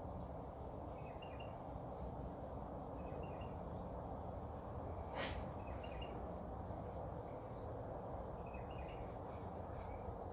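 Quiet steady background rumble with a bird's short chirps repeating about every two seconds, and a single sharp click about five seconds in.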